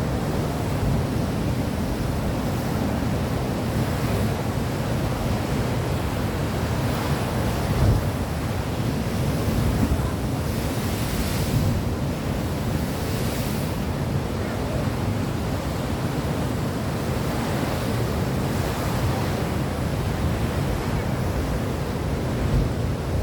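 Sea waves washing on a shore, with wind rumbling on the microphone; two brief louder hissing swells near the middle.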